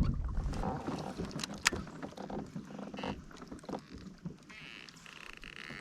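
Hobie kayak under way: water lapping against the hull with scattered light knocks and clicks, growing quieter.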